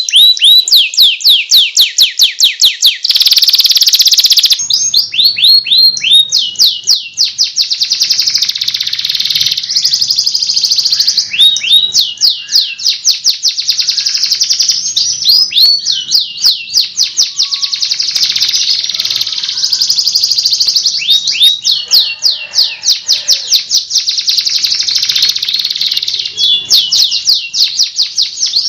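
Domestic canary singing a long, continuous song of rapid trills and fast repeated sweeping notes, with a short harsh, noisy phrase about three seconds in.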